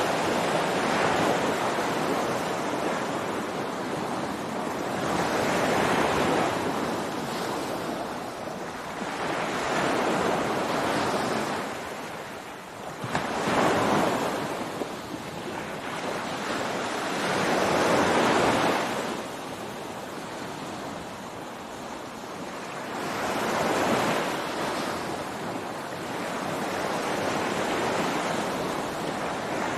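Ocean surf breaking on a beach, waves washing in one after another every four to five seconds, each a swelling rush of noise that ebbs away before the next.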